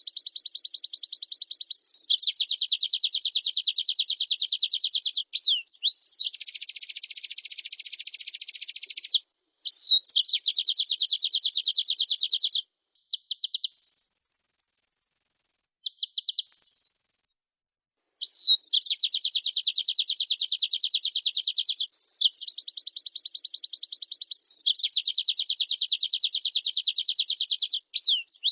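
White-eye (pleci) singing in full song: long, fast, evenly pulsed trills of a few seconds each, separated by short breaks. About halfway through come two brief, much higher and brighter phrases.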